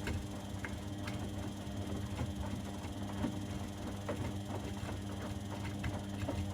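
Washing machines and tumble dryers running together: a steady motor hum with irregular light clicks and knocks from the turning drums.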